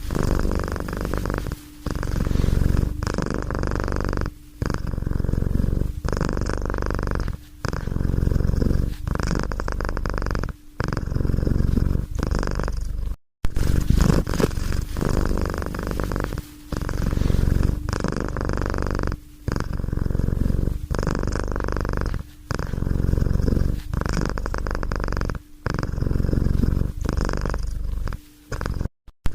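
Domestic cat purring, close up, in a steady rumble that breaks briefly about every second and a half as the cat's breathing changes over. There is one short gap of silence about halfway through.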